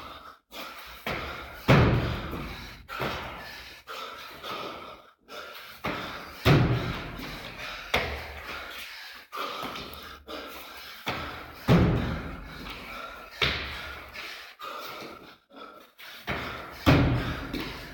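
Heavy thuds of an athlete's workout reps, one big impact about every five seconds with smaller knocks between, each ringing briefly in the room.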